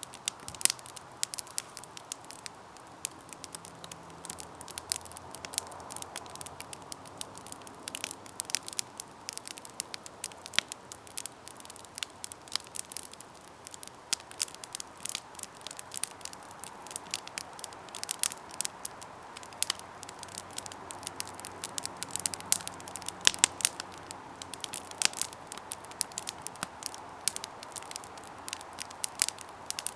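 Campfire burning with dense, irregular crackling and popping over a soft steady hiss of flame.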